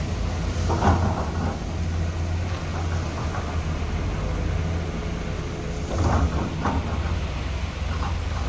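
Heavy diesel earthmoving machinery running steadily with a low rumble, broken by a few metallic clanks: one about a second in, two close together about six seconds in, and a lighter one near the end.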